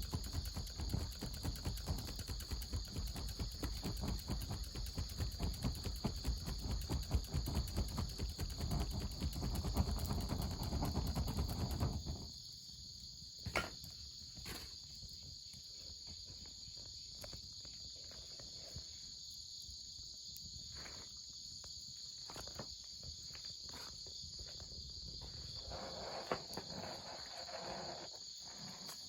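Insects chirping in a steady high drone over a wood fire crackling. The crackling is dense and loud for about the first twelve seconds, then drops away suddenly to scattered pops.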